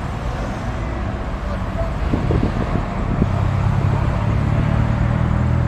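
Car engines and exhausts rumbling as cars drive past. From about halfway in, one engine's low, steady drone grows louder.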